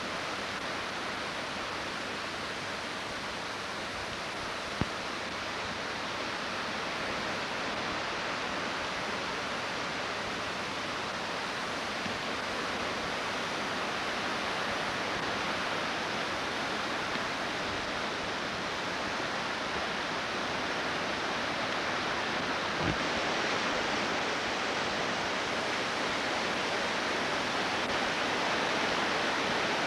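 Flooded creek running high: a steady, unbroken rush of water, with a couple of faint knocks.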